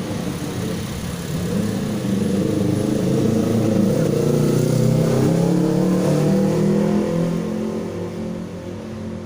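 A vehicle engine speeding up, rising in pitch and loudness over a couple of seconds, holding, then dropping back and fading near the end.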